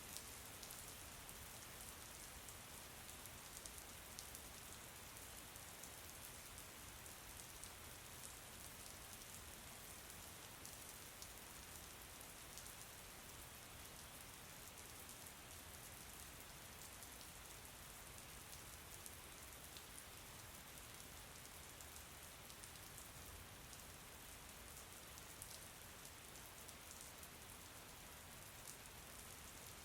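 Steady rain falling on a surface, a soft even hiss with many fine drop patters throughout.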